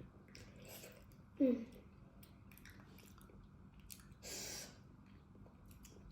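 Close-miked mouth chewing a bite of spicy chewy potato, with small wet clicks and squishes throughout. A short, loud sound falling in pitch comes about a second and a half in, and a breathy hiss about four seconds in.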